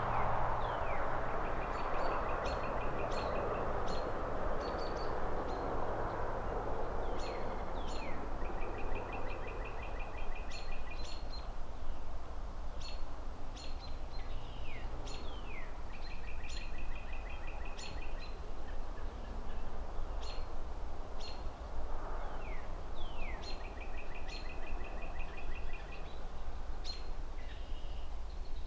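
Birds chirping: a short dotted trill that comes back about every seven seconds, with quick downward-sweeping calls and high chips between. Under them runs a steady low traffic rumble, and a rushing hiss is loudest at the start and swells again about two-thirds of the way through.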